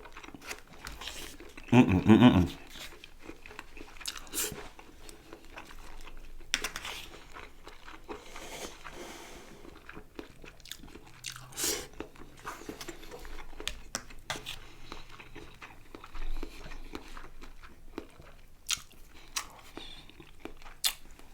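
A person chewing and biting food close to the microphone, with crunchy bites and scattered sharp clicks, eating chicken kebab with rice and salad. A louder short burst comes about two seconds in.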